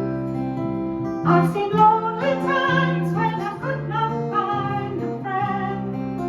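Acoustic folk music: acoustic guitar playing steady chords, with a wavering lead melody line over it from about a second in until near the end.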